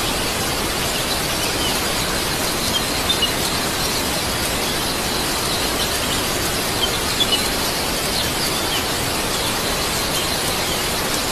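Steady, even hiss of outdoor noise, with short bird chirps scattered over it.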